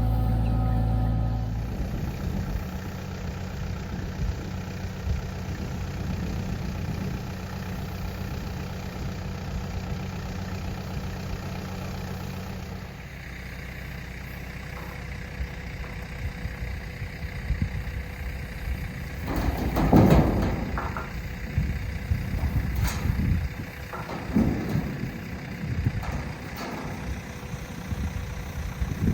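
Farm tractor engine idling steadily, with several loud irregular clunks and thumps in the second half.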